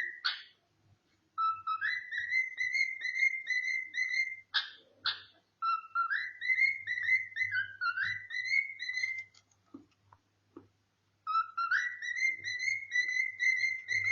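Pet cockatiel whistling a tune in three phrases of quick, repeated rising notes, with short pauses between them and a few sharp clicks.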